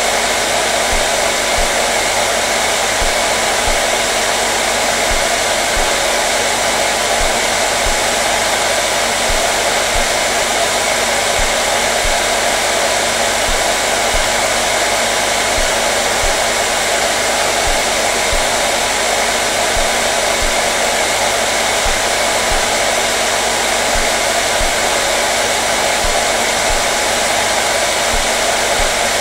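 Hair dryer running steadily, a constant even rush of air with a faint steady hum under it.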